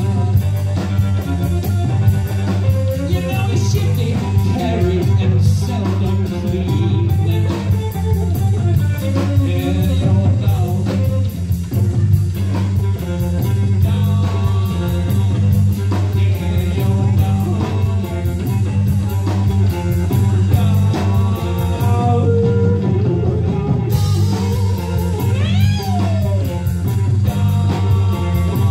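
Live rock band playing a song: electric guitar, bass and drum kit, with singing.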